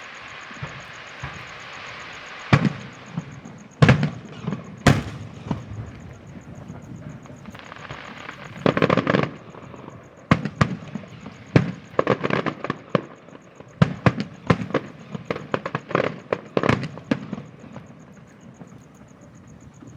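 Aerial fireworks going off in a string of sharp bangs. About nine seconds in comes a dense burst of crackling, then a quick run of bangs that stops after about seventeen seconds.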